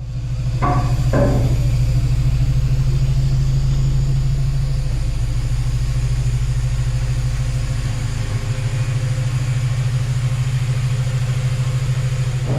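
Honda Civic Type R (EP3) K20 four-cylinder engine with a 4-2-1 manifold and full aftermarket exhaust, running steadily at a constant low speed, like an idle. Two short knocks sound about half a second and a second in.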